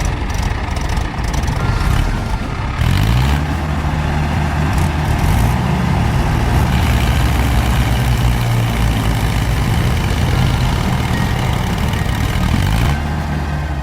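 Heavy truck or machine engine running loud; it revs up about three seconds in, holds a steady pitch, and drops back near the end.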